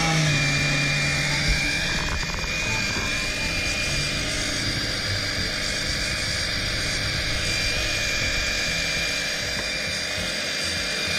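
Electric 12-volt oil extractor pump running steadily with a constant high whine, sucking warm engine oil up through the dipstick tube of a Yamaha inboard boat engine.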